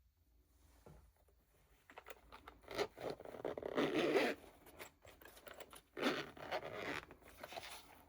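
Packaging being opened by hand: scratchy rustling and tearing, in two longer stretches, one around the middle and one near the end.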